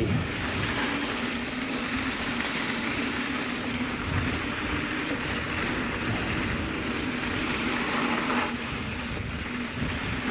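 Mountain bike tyres rolling over loose, sandy dirt trail, a steady rush of tyre and wind noise.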